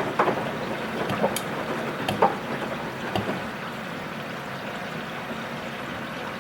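Washing machine mid-wash, its drum turning and water and laundry sloshing inside, with a few sharp splashes or knocks in the first three seconds and a steadier slosh after that.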